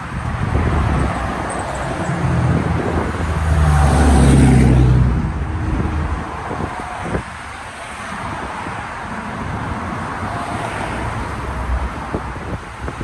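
A car's engine running as it drives past close by, getting louder with a brief rise in pitch at about four seconds, then fading to a lower rumble.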